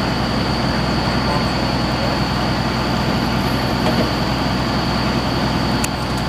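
Engine of a well-drilling rig running steadily, with a thin high whine held above it.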